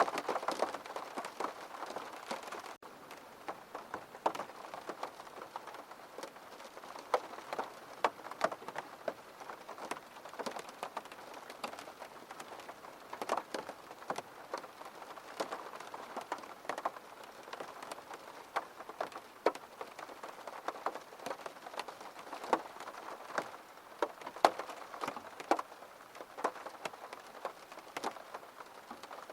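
Steady rain, with many separate drops striking a surface as sharp ticks over a continuous hiss.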